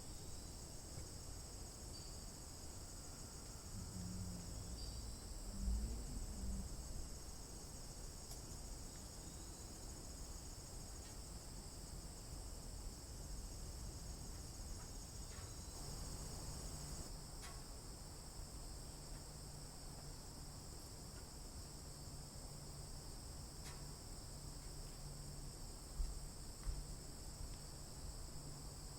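Steady high-pitched chorus of insects trilling without a break, with a couple of low thumps and a low steady hum coming in about halfway.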